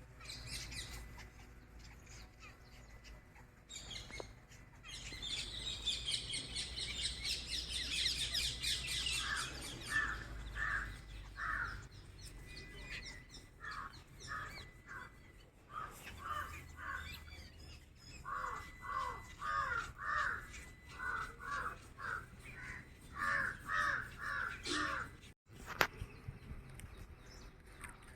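Crows cawing over and over in short runs of calls, with high, dense twittering of small birds in the first half.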